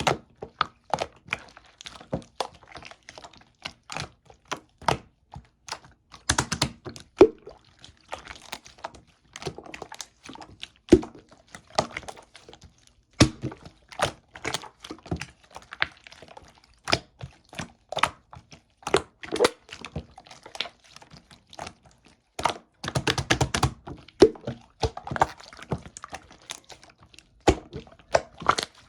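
Purple slime being pressed and poked by hand, giving irregular sharp pops and clicks as air pockets burst, several a second, with a denser flurry about three-quarters of the way through.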